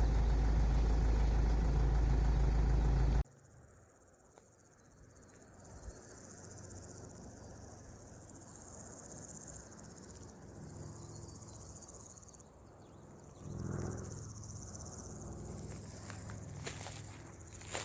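A loud, steady low rumble cuts off suddenly about three seconds in. After it comes a faint, steady high-pitched chirring of insects.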